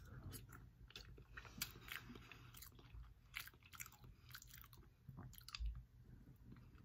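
A person chewing food with faint, irregular wet clicks and smacks of the mouth.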